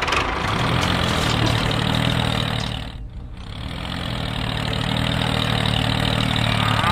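Tractor engine idling steadily, dropping away briefly about three seconds in and then picking back up.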